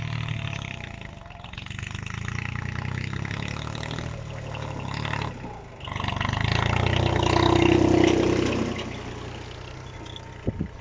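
VST Shakti MT 224 mini tractor's diesel engine running steadily under way. About six seconds in it swells louder for a couple of seconds, then eases off.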